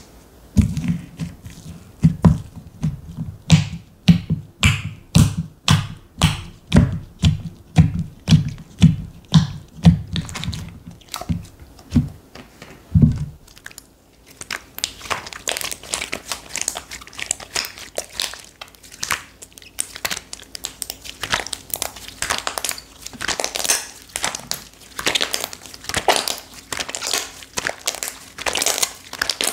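Slime being worked by hand: for about the first thirteen seconds a regular pressing or slapping, about two strokes a second, each a deep thud with a sharp click, then dense crackly, crunchy squishing.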